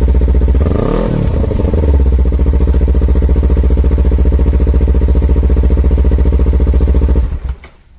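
Kawasaki Ninja 250 parallel-twin engine idling through an aftermarket SP Takegawa muffler. About a second in it revs once briefly, then settles back to idle, and near the end it is shut off.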